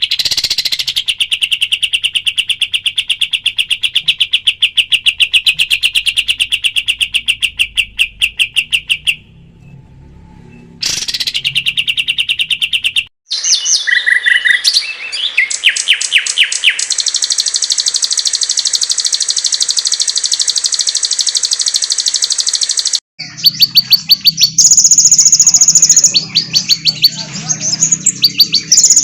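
Spliced recordings of songbirds used as masteran, the training songs for competition birds. Each segment is a fast, chattering run of rapidly repeated high notes. The song switches abruptly to a different bird or recording several times, with a brief pause about nine seconds in.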